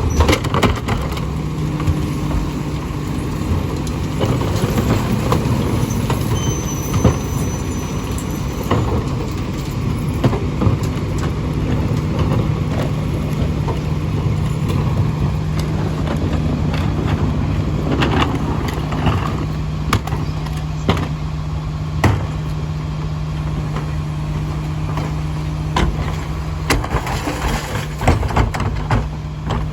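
Split-body garbage truck's engine running steadily, with scattered sharp knocks and clanks from the truck at work.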